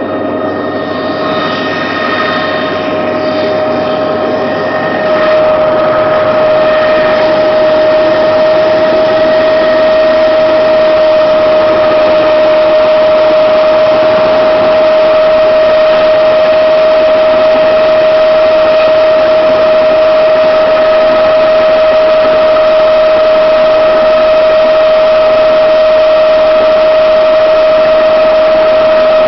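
Helicopter engine and rotor noise with a steady high whine. About five seconds in it steps up slightly in pitch and gets louder, then runs evenly.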